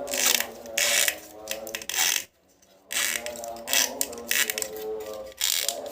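Excavator puzzle pieces clicking and rattling as they are handled and fitted together: a run of short, sharp bursts, broken by a brief silence about two and a half seconds in.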